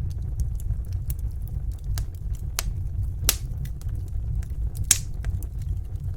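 Wood fire in a fireplace crackling: sharp, irregular pops over a steady low rumble, the loudest pop about five seconds in.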